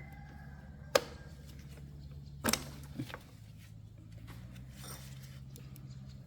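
A sharp knock about a second in, then a louder clatter and a smaller knock a moment later, over a steady low hum.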